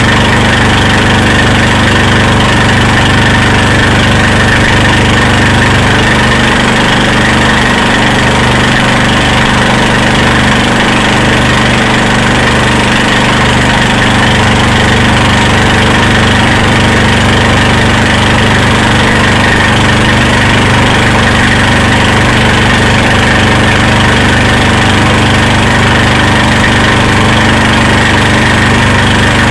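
Motorboat engine running steadily, a loud continuous drone with no change in speed.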